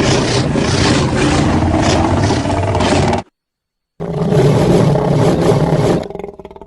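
Two dragon-roar sound effects. The first is a long roar that cuts off abruptly about three seconds in. After a short silence a second roar lasts about two seconds and fades away with a trailing echo.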